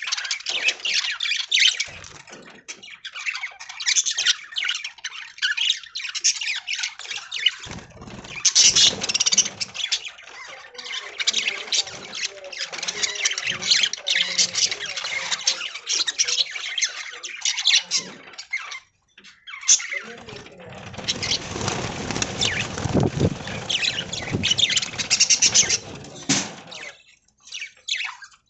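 A flock of budgerigars chattering and squawking with dense, rapid chirps. About two-thirds of the way through, a fuller stretch of noise joins in for several seconds.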